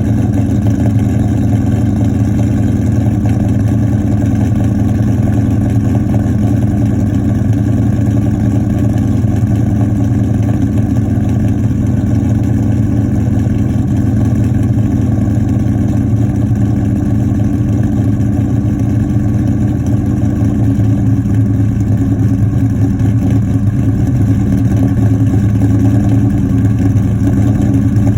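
2003 Mustang Mach 1's DSS SuperMod 5.0 V8 with Comp XER cams idling steadily on a cold start, through BBK long-tube headers, an off-road H-pipe and a Magnaflow cat-back exhaust.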